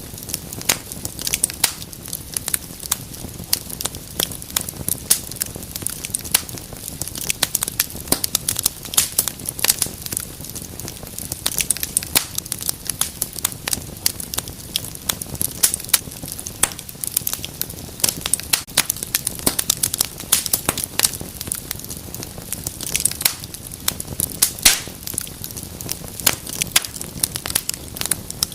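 Wood fire in a fireplace crackling, with dense irregular pops and snaps over a soft steady hiss of the flames.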